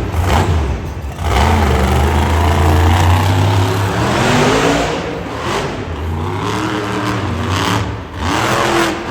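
Monster truck engine revving hard, its pitch rising and falling again and again as the throttle is worked.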